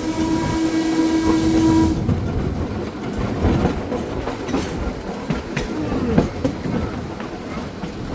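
A 1926 Wason streetcar's warning horn holds one steady note and cuts off sharply about two seconds in. After it the car rolls on with wheels clicking over rail joints, a short squeal near six seconds and a steady running rumble.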